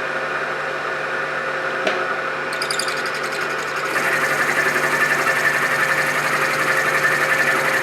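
Milling machine spindle running at its lowest belt speed, its 1/2-inch end mill cutting steel. A click comes about two seconds in, and the cutting grows louder and rougher from about four seconds in.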